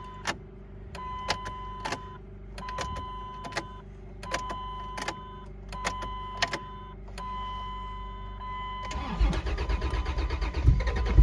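2004 Dodge Dakota's ignition key cycled on and off about six times to prime the fuel pump, each cycle a steady tone of about a second framed by clicks. About nine seconds in, the starter begins cranking the cold engine, which has sat unstarted for about two weeks.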